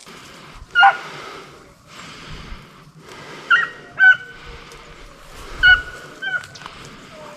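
Deer-drive hound giving about five or six short, high-pitched yelps, spaced irregularly over a few seconds.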